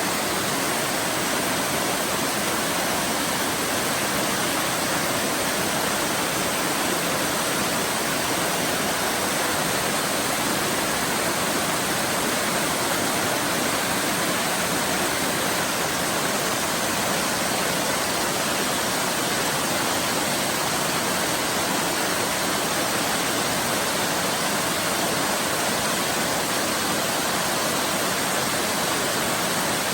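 Waterfall: water falling and splashing in a steady, even rush with no other sounds.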